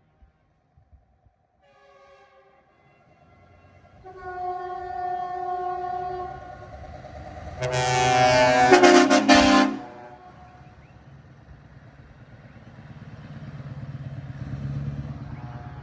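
Truck air horns sounding three blasts of growing strength, the last about eight seconds in the loudest, a dense multi-note chord lasting about two seconds. A heavy truck's deep engine rumble then swells as it drives past.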